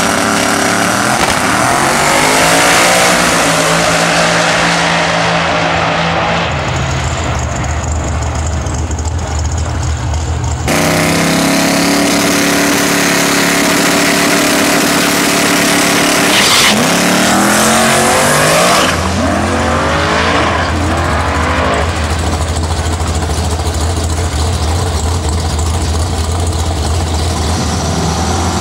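Drag-racing Nissan Skyline's 481X billet V8 running loud, its revs rising and falling. The sound changes abruptly about ten seconds in, and a steadier low drone holds through the second half.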